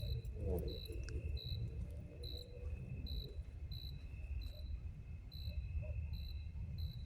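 A cricket chirping in short, evenly spaced high chirps, a bit more than one a second, over a steady high insect drone, with a continuous low rumble underneath.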